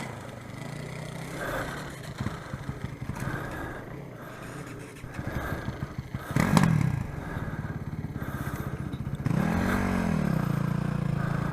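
Dirt bike engine idling, with a sharp clank about six and a half seconds in and a brief rev that rises and falls near ten seconds.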